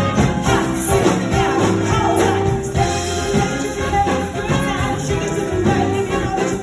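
Live dance music with a singer and band, a steady beat and a sung melody.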